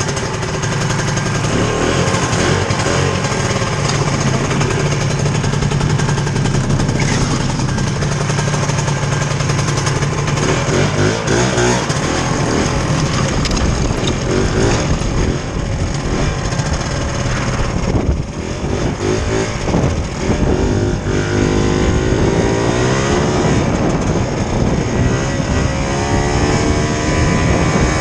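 Vintage two-stroke snowmobile engine running under throttle, steady at first. It dips briefly twice, then its pitch wavers up and down in the last few seconds as the throttle changes.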